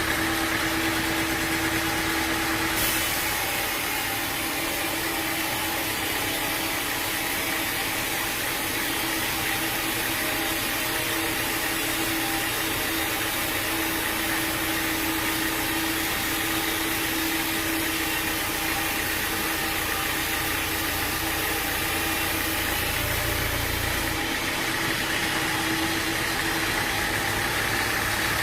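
Sawmill machinery running steadily: an engine with a constant hum. A hiss sets in about three seconds in and drops away near the end.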